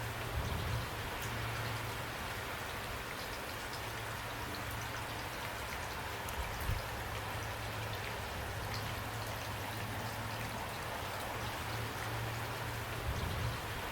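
Steady rain falling, an even hiss dotted with the ticks of individual drops over a low rumble, with a few soft low thumps about half a second in, near the middle and near the end.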